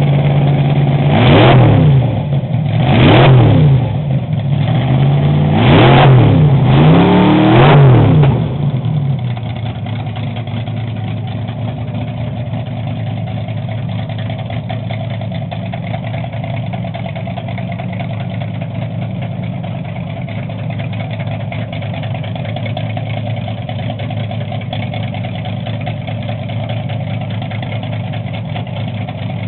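Chevrolet 348 big-block V8 in a nostalgia drag car, blipped four times in quick succession, each rev rising sharply and dropping back, then settling into a steady lumpy idle for the rest of the time.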